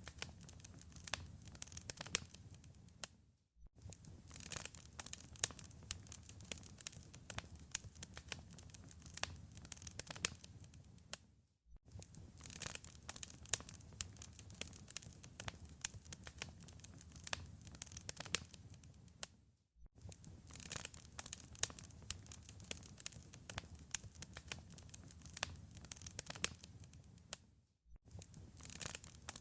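Wood fire in a fireplace crackling and popping over a low rumble. It cuts out briefly to silence about every eight seconds, then picks up again.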